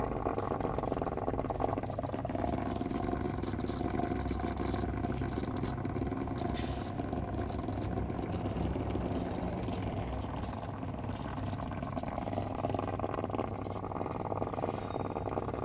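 Honda CBR1100XX Super Blackbird's inline-four engine running at a steady idle, with a dense mechanical rattle over the low engine note. It is the abnormal noise the owner calls weird.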